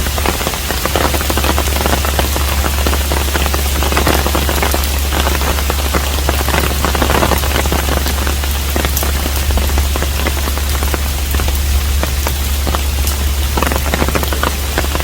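Steady rain falling on a traditional Korean hanok house, with many separate drops striking close by, over a steady low hum.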